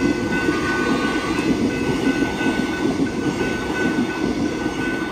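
X'Trapolis 100 electric suburban train rolling past close by over a level crossing, its wheels rumbling and clacking on the rails. The crossing's electronic warning bells ring steadily over it. The train noise begins to fade at the very end.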